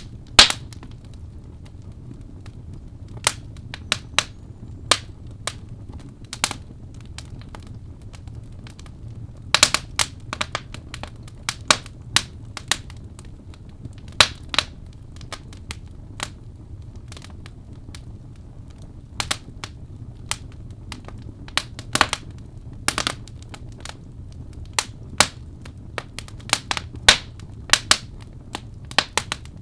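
Wood fire burning in a fireplace, crackling with irregular sharp pops of varying loudness over a low steady rumble.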